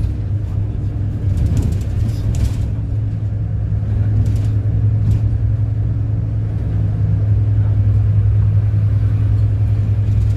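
City bus engine running under way, heard from inside the cabin: a steady low drone that grows slightly louder in the second half. A few light clicks or rattles come about two and four to five seconds in.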